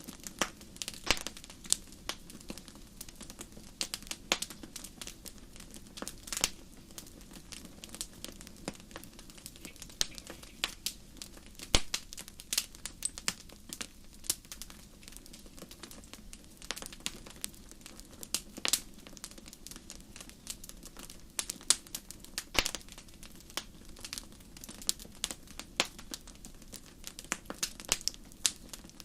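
Wood fire burning in a fireplace, crackling with irregular sharp pops and snaps.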